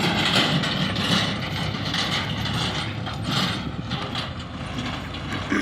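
Heavy diesel earth-moving machinery running, with a metallic rattle and clatter that surges roughly once a second over the engine's low rumble.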